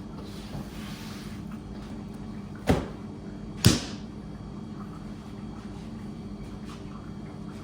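Two sharp knocks about a second apart, the second louder, over a steady low machine hum.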